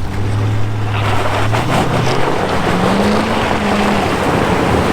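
A 4x4's engine revving under load during an attempt to drive a stuck vehicle out. It holds steady, then rises in pitch about two seconds in, over a loud rushing noise like wheels churning mud and water.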